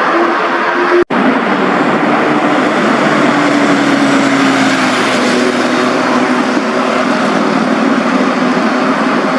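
Superbike engines and exhausts running under a steady rush of noise, with one engine note sinking slowly in pitch a few seconds in. The sound cuts out for an instant about a second in.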